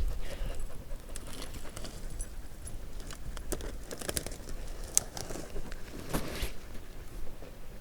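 Rustling, scuffing and scattered small clicks from someone scrambling up a rocky dirt slope, mixed with handling noise from a hand-held camera.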